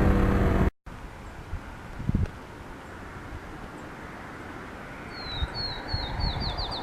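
A motorcycle engine runs for a moment and is cut off abruptly. It gives way to quiet open air with a brief low thump about two seconds in. From about five seconds a bird calls: short down-slurred chirps that speed up into a rapid trill.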